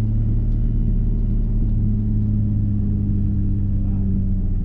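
Nissan 350Z's 3.5 V6 running loud through a straight-through exhaust, held at steady low revs for a launch, the pitch wavering slightly as the revs hunt. The engine won't settle below about 2000 rpm.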